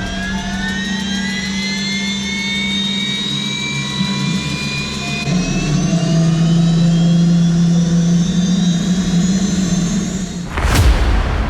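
Bell 206 JetRanger helicopter's turboshaft engine spooling up, its whine rising in pitch over several seconds and then holding steady over a low hum, with rapid ticking that fades out about halfway. A brief loud burst of noise comes near the end.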